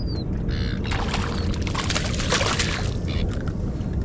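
Hooked tailor splashing at the water's surface beside the boat, mostly from about a second in for two seconds, with shorter splashes before and after, over a steady low rumble.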